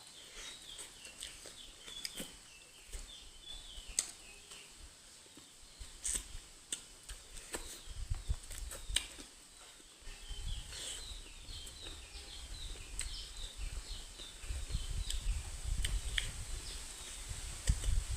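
Small birds chirping in short runs, with scattered sharp clicks and smacks of eating close to the microphone. A low rumble comes in during the second half.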